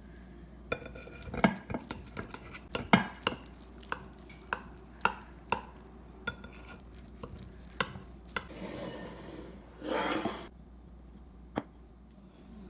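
A metal utensil clinking and tapping against a dish, many sharp clinks, some ringing briefly. A scrape comes about eight and a half seconds in, and a louder one about ten seconds in.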